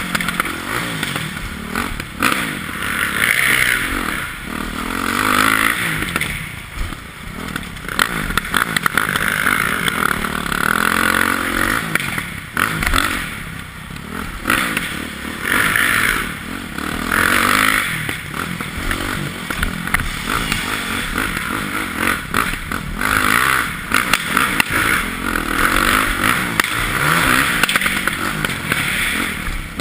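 Yamaha YZ450F dirt bike's four-stroke single-cylinder engine being ridden hard, revving up and dropping off again and again, with scattered clattering knocks.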